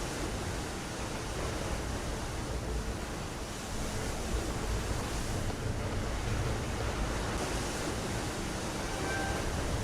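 A steady rush of sea water with a heavy low rumble. A few faint, brief high tones come in about nine seconds in.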